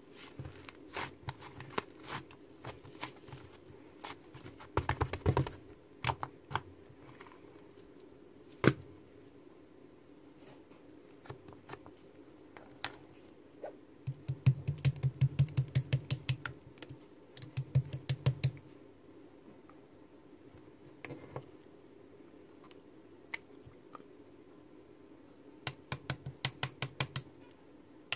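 Slime being pressed and squeezed by hand, giving sharp clicking pops, mostly scattered but in quick runs of several clicks a second a few times, longest about halfway through and again near the end.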